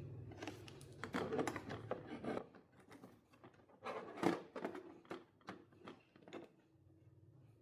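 Light clicks, taps and rattles of small hard objects being handled, with a low steady hum that cuts off about two and a half seconds in.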